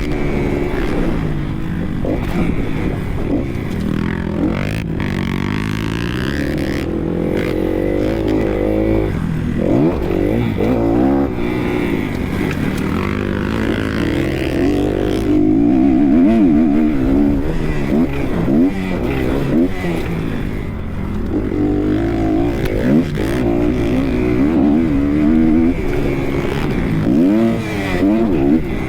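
Kawasaki KX 250 motocross bike engine revving hard, its pitch climbing and dropping again and again as the throttle is opened and closed around the track.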